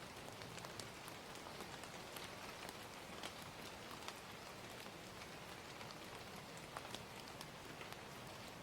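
Ambient bed of steady gentle rain, with scattered small sharp crackles of a wood fire throughout.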